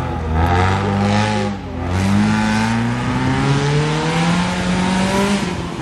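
Rally car engine accelerating hard as it passes, its pitch climbing, dropping briefly for one upshift about two seconds in, then climbing again.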